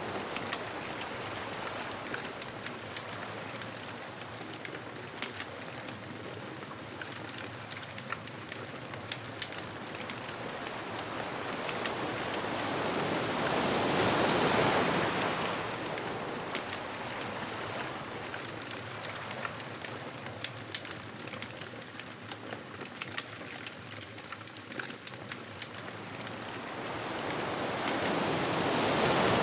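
Ocean waves breaking and washing up the beach, swelling twice, about halfway through and again at the end, with a beach bonfire crackling throughout.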